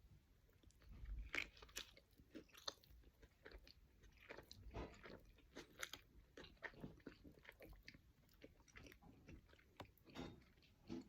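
Close-up eating sounds: biting into a soft-bun cheeseburger loaded with queso sauce and chips, then chewing with mouth noises and faint wrapper crinkle, a string of soft irregular crunches and clicks.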